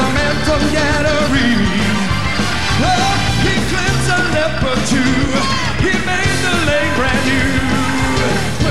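Loud, up-tempo church praise music: a band playing with many voices singing and shouting along.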